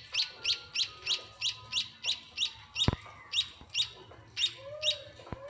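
A munia chick giving rapid begging calls as it is hand-fed: short high chirps that each drop in pitch, about three to four a second, stopping about five seconds in. A single sharp click sounds near the middle.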